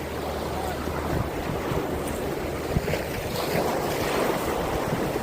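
Water sloshing and lapping around a small boat, with wind rumbling on the microphone and a low hum that stops about a second in.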